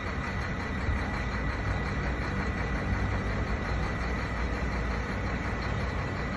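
An engine running steadily at idle, a low, even rumble with a faint steady whine on top.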